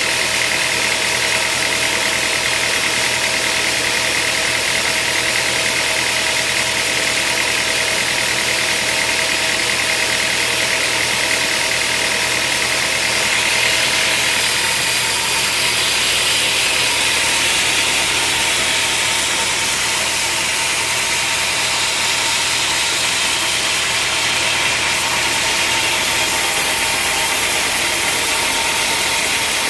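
Sawmill machinery running steadily with an engine-like hum and a constant hiss, growing a little brighter partway through.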